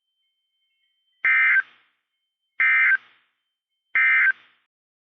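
Emergency Alert System SAME digital data bursts, the end-of-message code sent three times as short buzzing data chirps about a second and a half apart. It marks the end of the severe thunderstorm warning broadcast.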